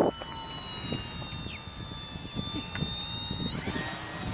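Electric motor and propeller of a small RC airplane whining steadily in the air, rising in pitch near the end as the throttle is opened.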